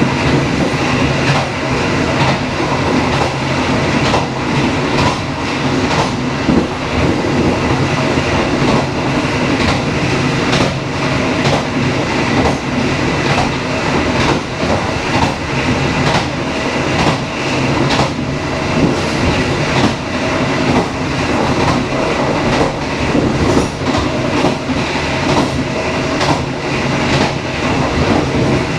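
Dharmawangsa passenger train running along the track: a steady loud rumble of wheels on rails, broken by frequent short clicks as the wheels pass over rail joints.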